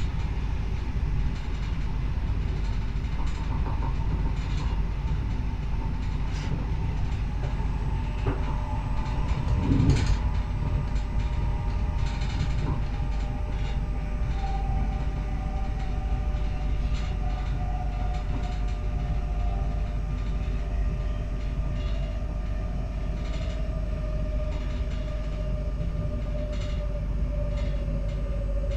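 Z 20500 double-deck RER electric train running, heard from inside the carriage: a steady rumble of wheels on track with occasional clicks from rail joints, and a motor whine that falls slowly in pitch as the train slows. About ten seconds in there is one louder rushing thump.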